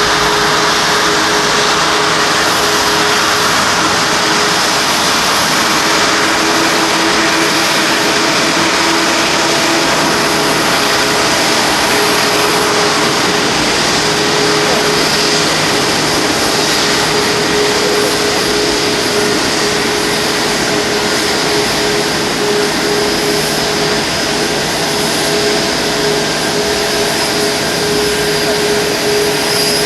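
Airbus A340-500's Rolls-Royce Trent 500 jet engines running at idle: a steady loud rush of noise with a high, even whine over it.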